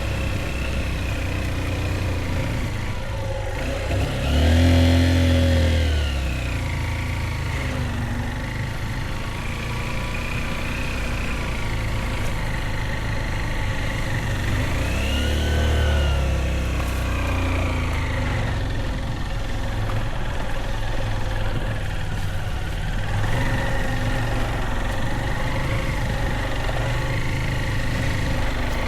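Motorbike engine running throughout, revving up and easing off twice, with the loudest rev about five seconds in and another in the middle, then settling to a steadier pull.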